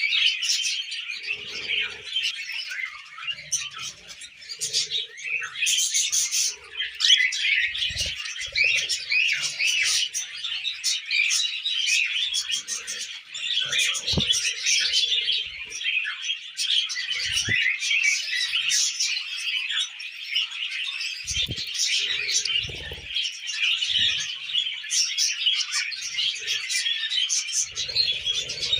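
A group of budgerigars chattering and warbling nonstop, a dense stream of quick high chirps, with a few dull thumps now and then.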